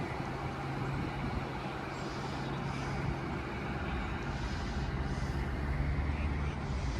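A heavy rail vehicle's engine running steadily, with an even low hum and no change in pitch.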